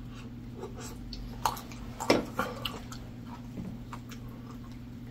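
Close-miked eating sounds: soft chewing and wet mouth noises, with a few sharp clicks, over a faint steady low hum.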